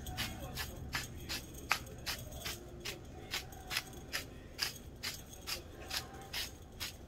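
Knife cutting vegetables on a cutting board in a steady rhythm, a crisp cut about two and a half times a second.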